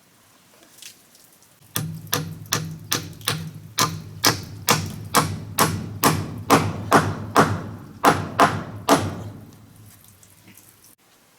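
A steady series of sharp blows, about two and a half a second, starting about two seconds in and stopping about two seconds before the end.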